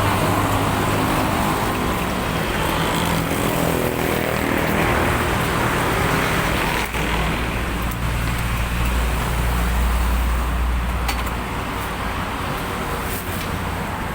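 Road traffic, with a motor vehicle's engine running close by; the low engine hum swells in the middle and then eases off.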